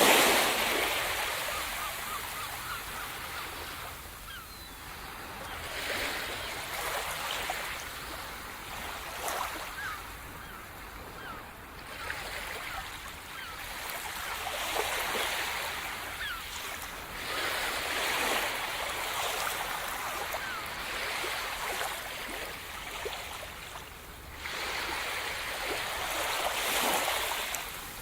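Sea surf: waves breaking and washing up on the shore one after another, swelling and fading every few seconds. The first wave is the loudest.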